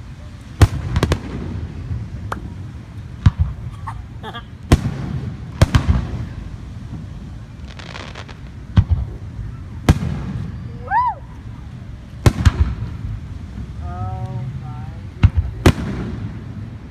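Fireworks display: aerial shells bursting in about a dozen sharp bangs, irregularly spaced a second or so apart, over a low rumble.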